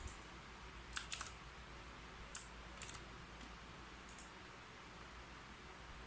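Keyboard keys typed in a few sparse, separate keystrokes, about six clicks in all, the first three close together.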